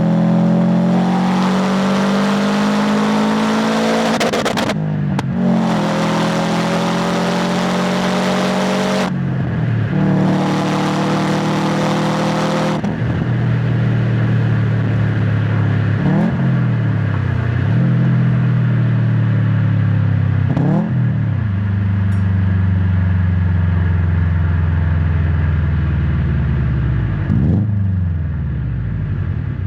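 Subaru WRX STI's turbocharged EJ257 boxer engine and exhaust pulling hard through three gears of its six-speed manual, the revs climbing each time and dropping at each shift. About thirteen seconds in the throttle lifts and the engine settles to a lower, steady note, with a few quick dips and rises in the revs.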